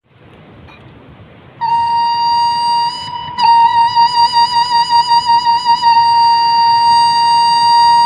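Sundanese bamboo flute (suling) sounding one long sustained high note over a steady hiss, with a brief break about three seconds in; after the break the note wavers with vibrato.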